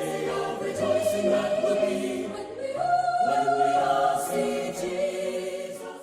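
Choir singing a hymn in harmony, holding long sustained chords.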